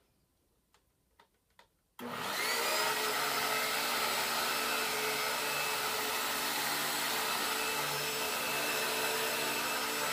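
Hoover vacuum cleaner switched on about two seconds in, its motor spinning up and then running steadily with a whine, set to its lowest carpet height and pulling powder from a low carpet. A few faint clicks before it starts.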